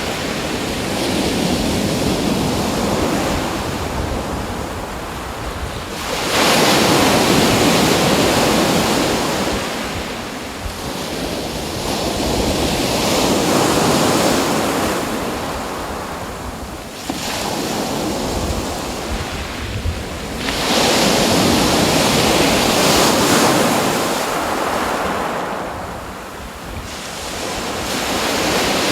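Ocean waves washing onto a shore, each surge rising sharply and then ebbing, about every seven or eight seconds.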